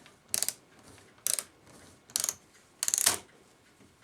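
Ratchet click of an antique Sessions clock movement snapping over the ratchet wheel as the mainspring is wound by hand. It comes in four quick runs of clicks about a second apart, one for each turn of the key.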